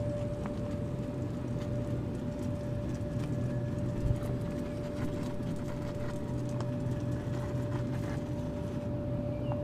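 Steady low machine hum with a constant mid-pitched whine, and one brief knock about four seconds in.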